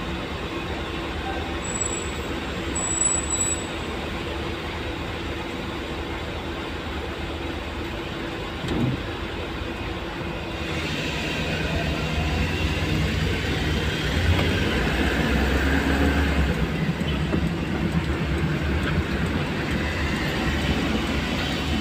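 Motor vehicle travelling on a road: the engine runs under a steady rushing road noise, and it gets louder and rumbles more about halfway through.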